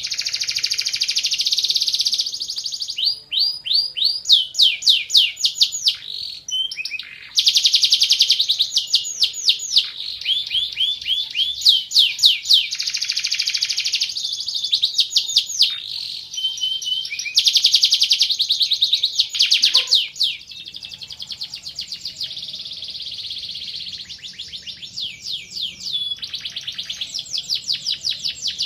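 Domestic canary singing a long, unbroken song: fast runs of rapidly repeated high notes, each sweeping up or down in pitch, changing to a new trill every second or two, with buzzy rolls between.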